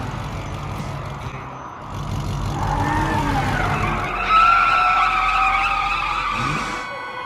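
Cartoon car sound effects: an engine running, then tyres screeching in long sliding squeals that are loudest about four seconds in.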